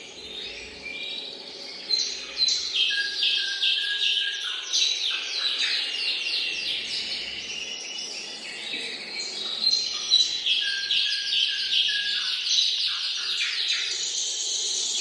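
Domestic canary singing a long, unbroken song of fast trills and rolls, with a level whistled note held lower down twice.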